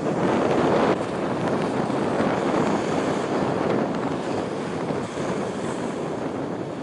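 Wind buffeting the microphone: a loud, rushing noise that swells and eases with the gusts.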